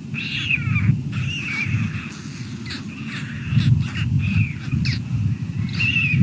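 Birds calling again and again in short cries, several of them falling in pitch, over a low rumbling background.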